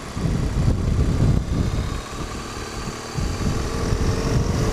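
2013 BMW R1200GS's 1170 cc flat-twin engine running as the bike is ridden, over an uneven low rumble, its note rising slowly near the end.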